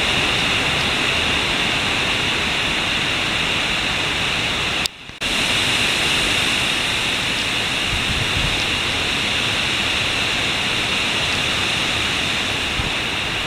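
Hurricane outer-band wind gusts and driving rain: a steady rush of noise that briefly cuts out about five seconds in.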